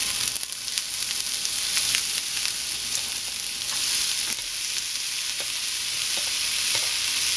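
Chopped onions sizzling in hot oil in a nonstick frying pan as they are poured in: a steady hiss, with a few light clicks as a spatula scrapes them out of the bowl.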